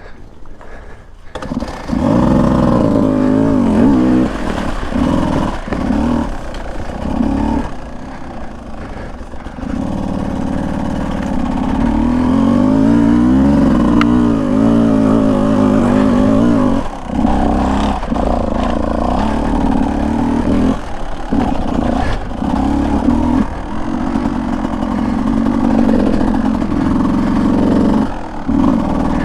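Beta 200 two-stroke dirt bike engine being ridden, its pitch rising and falling as the throttle is opened and eased off, with short dips where the throttle closes every few seconds. It gets going about two seconds in.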